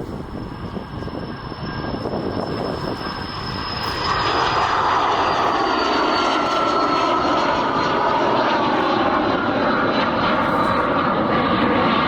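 Airliner passing close by on or over the runway, its engine noise swelling about four seconds in and staying loud, with a high engine whine slowly falling in pitch.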